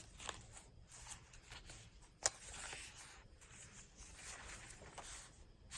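Faint rustling of paper and fabric as the pages of a thick handmade journal are turned and handled, with one sharp tap a little over two seconds in.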